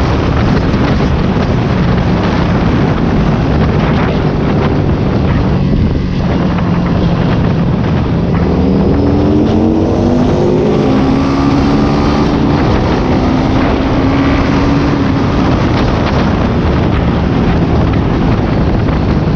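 Ducati Scrambler Cafe Racer's 803 cc air-cooled L-twin engine and exhaust running under way, with wind on the microphone. About halfway through, the engine note rises as the bike accelerates.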